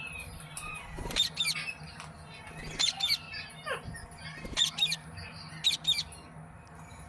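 Rose-ringed (Indian ringneck) parakeet giving a series of short, shrill squawks, about one every second.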